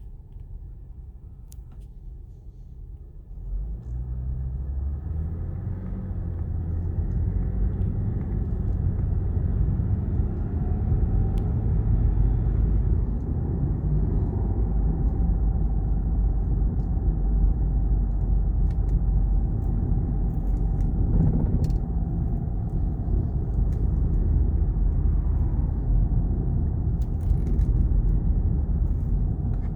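A 2012 Lexus IS250 being driven, its road and drivetrain rumble starting about three and a half seconds in and building to a steady level. A faint steady whine runs through the middle: the drivetrain noise on deceleration, put down to the front differential.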